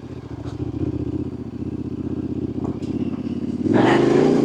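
Yamaha Ténéré 700's parallel-twin engine running at low revs, then opening up and getting clearly louder about three and a half seconds in.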